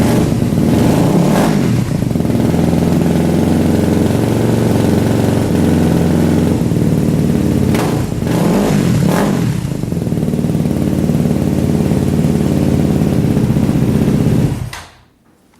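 Yamaha WR250R's 250 cc single-cylinder four-stroke engine idling through its exhaust. It is blipped once near the start and two or three times about halfway, then shut off just before the end.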